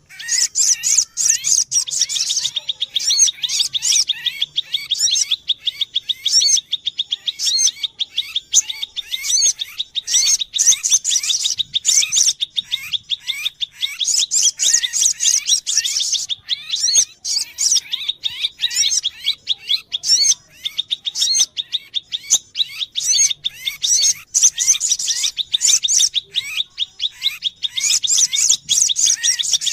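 Sunbird calls used in luring sogok ontong sunbirds: a continuous stream of rapid, high-pitched chirps and short sliding notes, over a thin steady high tone for much of the time.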